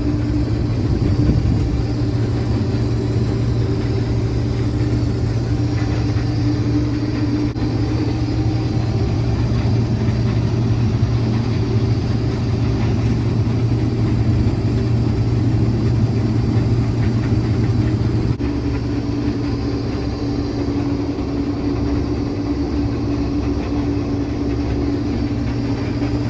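Combine harvester running steadily while cutting wheat: a constant low engine drone with a steady hum above it that shifts slightly in pitch twice.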